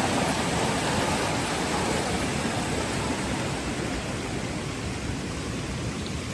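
Steady rainfall, an even hiss that grows a little softer over the last few seconds.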